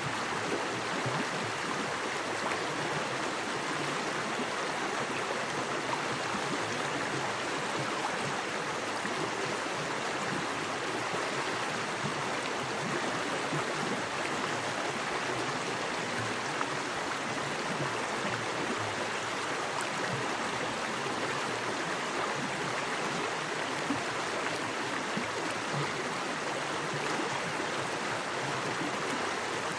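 Small woodland creek with fast water running over rocks: a steady, even rushing and splashing without let-up.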